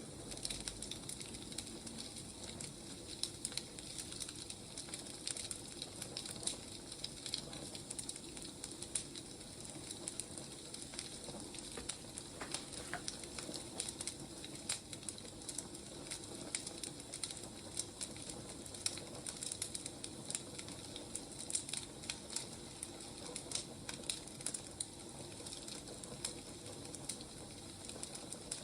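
Wood fire burning, with a steady low hiss and frequent irregular crackles and pops from the burning logs.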